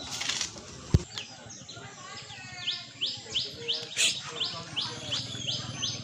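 A bird calling with a short, high rising chirp repeated about three times a second, starting about two and a half seconds in. A single sharp knock comes about a second in.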